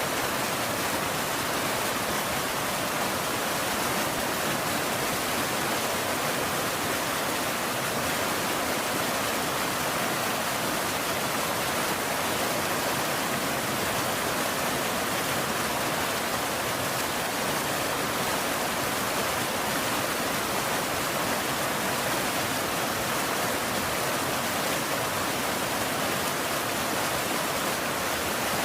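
Rain falling steadily: an even hiss with no single drops, rumbles or thunder standing out.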